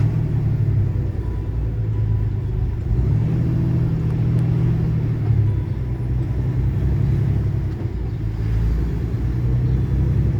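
Vehicle cabin noise while driving: a steady low engine and road rumble, with the engine hum swelling and easing a few times.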